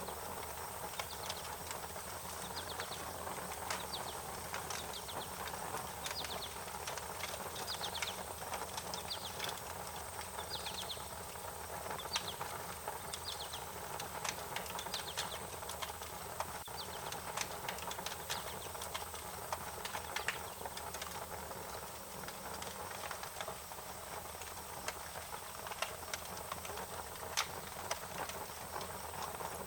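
Wood fire crackling: irregular sharp pops and snaps scattered over a steady low hiss.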